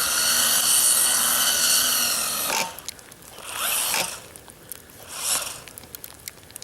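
Brushless electric motor and drivetrain of a Traxxas Mini E-Revo VXL RC truck whining at full throttle, cutting off about two and a half seconds in. Then two short throttle bursts, each a brief rising whine, with a few clicks between.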